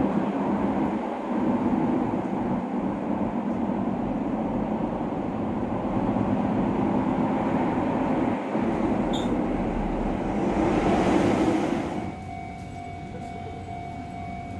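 Running noise inside a Keihan 800 series metro car: a steady rumble of wheels and traction gear under way, swelling slightly before it cuts off about twelve seconds in. A quieter steady hum with a faint constant tone follows.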